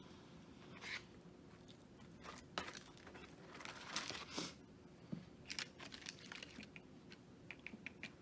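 Eating Popeyes fried food: crunching bites, chewing and the crinkle of paper wrapping, in short scattered bursts and small clicks.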